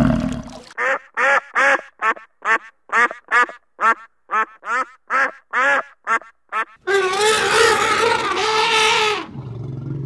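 Mallard ducks quacking: a rapid series of short, downward-sliding quacks, about three a second. Near the end comes a longer, wavering animal call about two seconds long.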